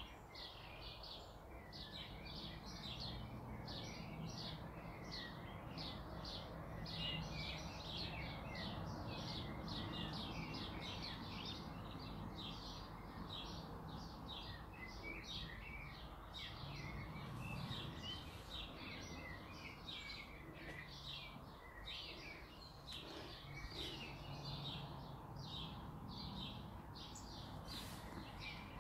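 Birds chirping rapidly and without a break, many short, high chirps a second, faint in the background.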